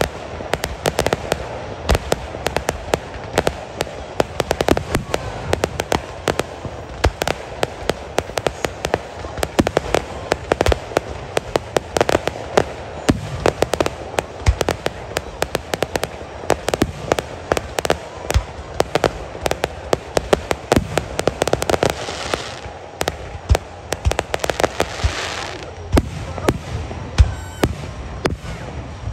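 Fireworks display going off in a continuous rapid barrage: dense cracks and bangs many times a second, with one especially loud bang near the end.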